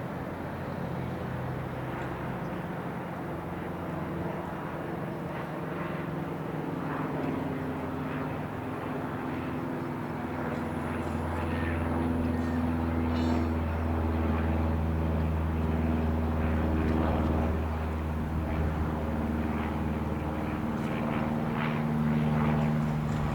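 Reims Cessna F.152 light aircraft, its four-cylinder Lycoming piston engine and propeller running steadily, growing louder from about ten seconds in.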